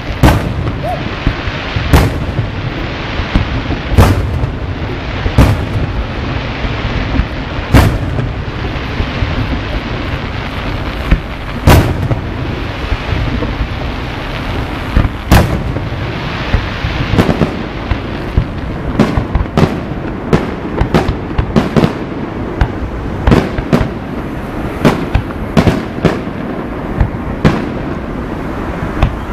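Aerial fireworks shells bursting in a steady run of booming bangs, about one every two seconds at first and then faster, roughly one a second or quicker, in the second half, with a continuous din between the bangs.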